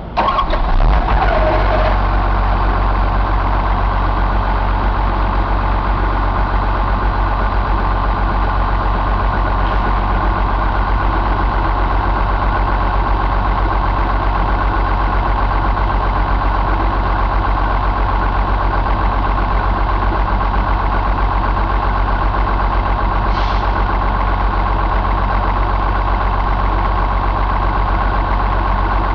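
John Deere 6068 6.8-litre inline-six diesel engine catching and revving briefly, then settling within the first two seconds into a steady idle.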